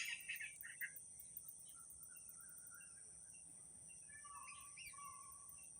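Faint bird chirps and short whistled calls over a steady high-pitched tone.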